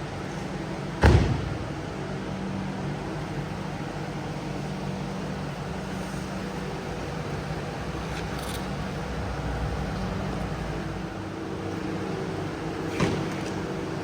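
A steady mechanical hum, with a sharp knock about a second in and a weaker knock near the end.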